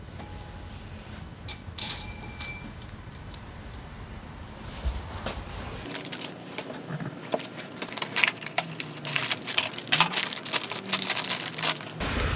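Metal tools and engine parts clinking as they are handled. A small metal part rings briefly about two seconds in, and a dense run of clicks and clatter follows in the second half.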